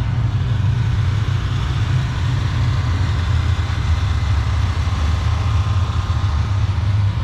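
A vehicle engine running steadily at idle, a low, even rumble.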